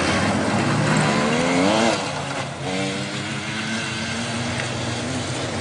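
Blazer 4x4's engine revving under load off-road, its pitch climbing about a second in and again near the middle, over a steady rush of noise.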